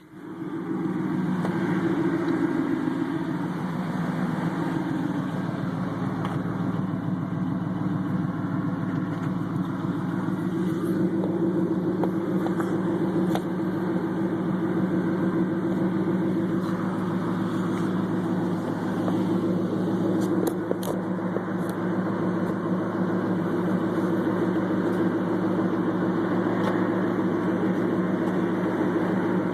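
2000 Pontiac Trans Am WS6's LS1 V8 idling steadily through Flowmaster 80 Series mufflers, a loud, even low exhaust note.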